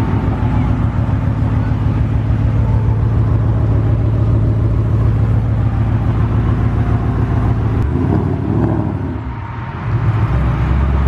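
Vortech-supercharged 5.0 V8 engine running with a fast, rumbling pulse. About eight seconds in the sound changes and drops briefly, then picks up again.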